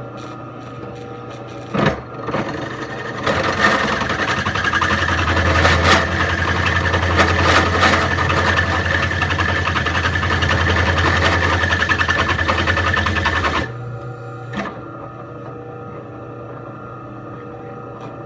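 Electric drill boring through a steel spark plug non-fouler clamped in a vise, running steadily for about twelve seconds as the bit cuts through the hard inner rib, then stopping suddenly. A sharp knock comes just as it starts and another shortly after it stops.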